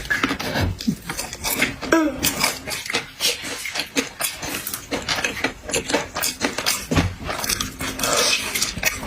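Close-miked eating: wet chewing and mouth smacks, a rapid, uneven run of clicks and crackles, with a short hum about two seconds in.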